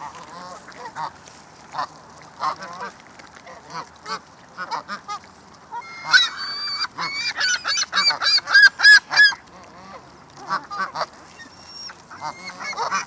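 A flock of gulls squawking as they crowd in to feed. Short calls come throughout, then thicken into a rapid run of loud calls from about six to nine seconds in.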